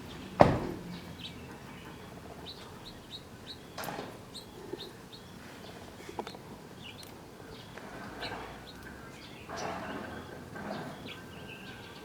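Small birds chirping with many short, high chirps, with a sharp loud knock about half a second in and a smaller one near four seconds.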